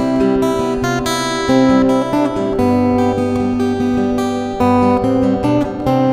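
Acoustic guitar strumming chords, with the chords and bass notes changing every second or so.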